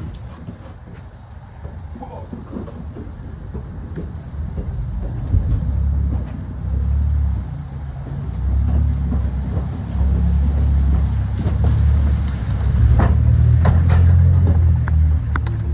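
A motor vehicle running, a low rumble that swells and fades and grows louder in the second half, with a few sharp clicks near the end.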